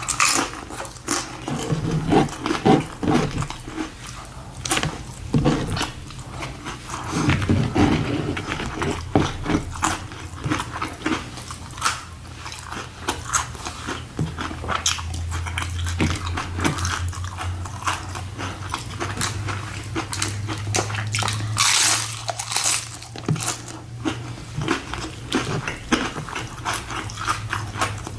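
Close-miked mouth sounds of someone eating tacos fast: bites with sharp crunches and wet chewing, coming thick and irregular, the pace of a speed-eating challenge.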